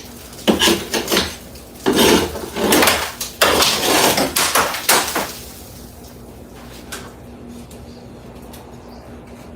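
Irregular scraping and clattering, loud, for about five seconds, then it drops away, leaving a faint steady hum.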